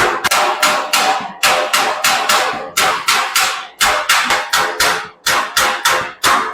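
Hand hammer striking sheet metal in a steady rhythm of about three blows a second, each blow with a short metallic ring.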